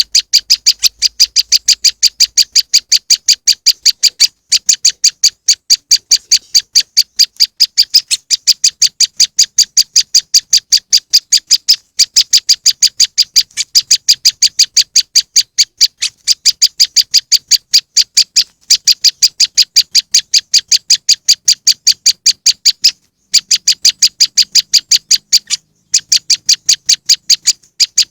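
Prenjak lumut calling: a fast, steady series of short high chips, about five a second, in long runs broken by a few brief pauses.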